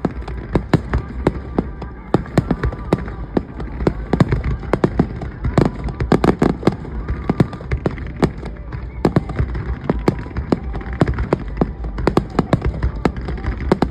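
Fireworks display: a rapid, irregular barrage of shells bursting, several bangs a second with crackling between them.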